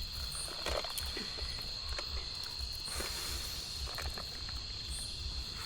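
Night insects, crickets or similar, trilling as one steady high-pitched tone, with a few faint clicks.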